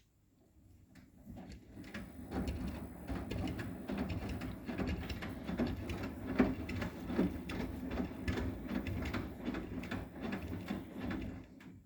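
Arçelik 9120M front-loading washing machine turning its drum with pillows inside: a low rumble with many irregular soft knocks, building up about a second in and dying away near the end.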